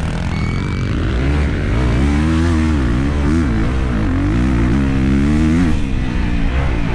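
Dirt bike engine revving up and down as the bike is ridden, its pitch rising and falling over and over in quick swells.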